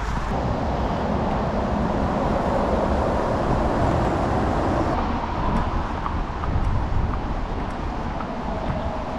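Road traffic: a steady rush of tyres and engines that swells about halfway through and then eases.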